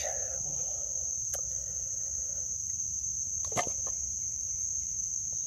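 Insects trilling steadily outdoors, a continuous high-pitched drone with a faint click about a second in and a brief short sound past the midpoint.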